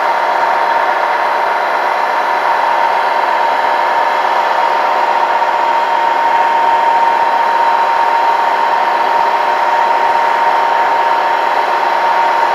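Small electric motor of a remote-control toy truck running with a steady high whine that holds one pitch throughout.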